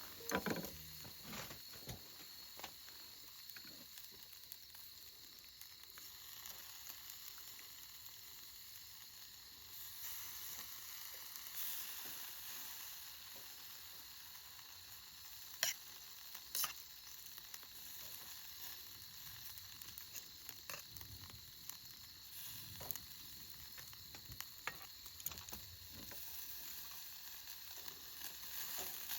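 Food sizzling as it fries: a faint, steady hiss with scattered small pops, and two sharper pops about halfway through.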